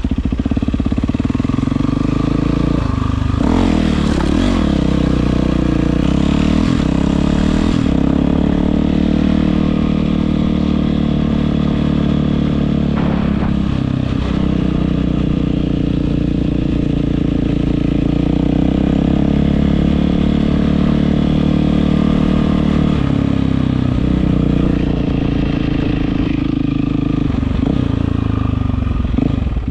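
Yamaha WR450F's single-cylinder four-stroke engine running through an Akrapovič exhaust, mostly at a steady idle. It is revved up and down several times a few seconds in, blipped once about halfway, and again near the end.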